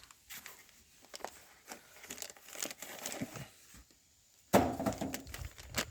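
Packaging rustling and crinkling as it is handled and pulled apart, with a louder clunk of handling about four and a half seconds in.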